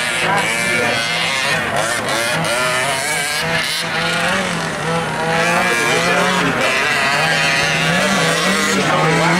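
Small two-stroke gas engines of 1/5-scale RC off-road trucks racing, revving up and down as they accelerate and brake around the track.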